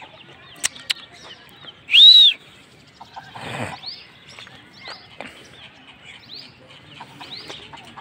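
Small birds chirping over and over in short rising calls, with one loud arching call about two seconds in. Two sharp clicks come just before it, and a brief rush of noise follows around three and a half seconds in.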